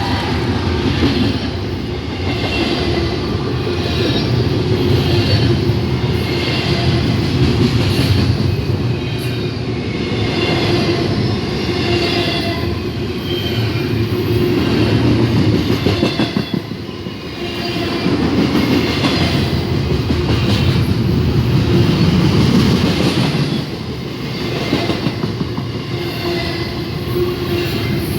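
Union Pacific train cars rolling past, a steady loud rumble of steel wheels on rail with a clatter repeating about once a second.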